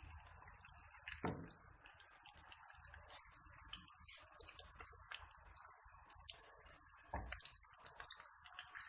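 Cooking oil heating in a pan, faintly crackling with scattered small pops and ticks, and two soft knocks, one about a second in and one later.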